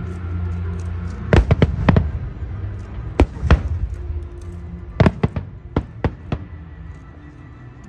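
Aerial fireworks shells bursting: about ten sharp bangs in small clusters of two or three, thinning out near the end, over a steady low rumble.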